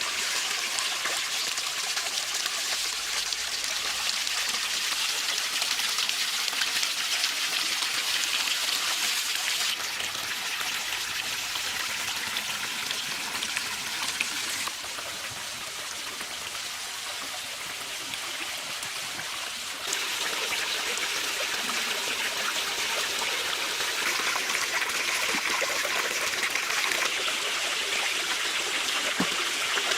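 Running water from a small waterfall, pouring and trickling steadily. The level drops abruptly about a third of the way in, drops again around the middle, and jumps back up shortly after.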